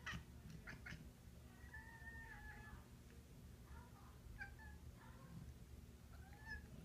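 Domestic cat giving quiet meows: one drawn-out call about two seconds in, then a couple of short ones near the end. A few faint clicks come near the start.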